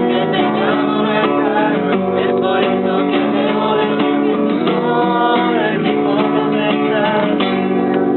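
Acoustic guitar strummed in a steady song, with voices singing along.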